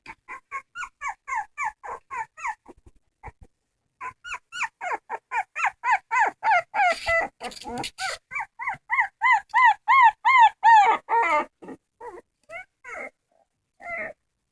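A dog crying: quick runs of short, high, arching whines, about three or four a second, with a break around three to four seconds in and the loudest cries around ten seconds in.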